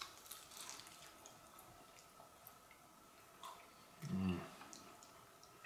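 People eating sticky glazed pork spare ribs: quiet chewing with small wet clicks and lip smacks. About four seconds in, one of them makes a short, low hummed 'mmm'.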